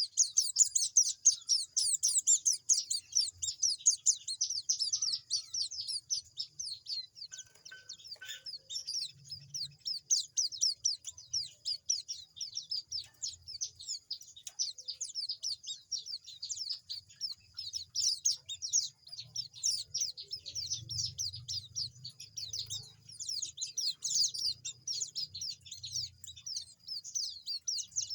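Young cagebirds, a white-eye (pleci) chick among them, chirping in rapid, high, thin calls without pause while learning to take bird feed.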